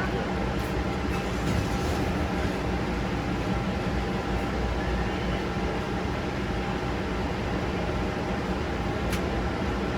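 Steady vehicle running noise, a constant low rumble and hum like a truck on the road.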